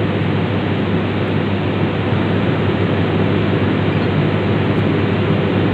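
A machine running steadily: a constant noise with a low hum, unchanging in level.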